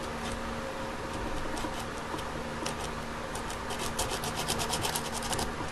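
Sandpaper rubbing on a tiny miniature light bulb in short scratchy strokes, roughing the glass to a frosted finish: a few scattered strokes, then a fast run of about eight a second in the last couple of seconds. A steady low hum runs underneath.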